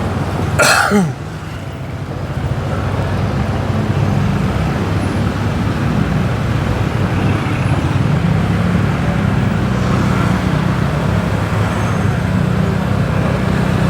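Motorbike engine running steadily amid road traffic noise. About a second in, a brief loud sound slides down in pitch.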